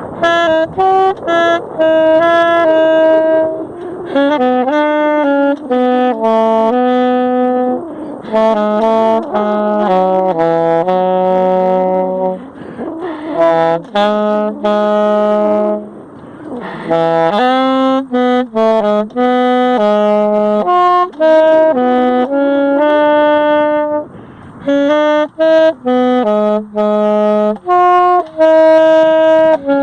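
Unaccompanied saxophone improvising a free-jazz line: a single melody of short, quickly changing notes broken by brief pauses, with a few breathy, rougher passages about halfway through.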